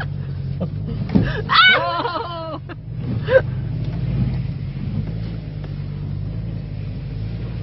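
Car engine running steadily at low revs, heard from inside the cabin on a slow off-road crawl, with a brief laugh about one and a half seconds in.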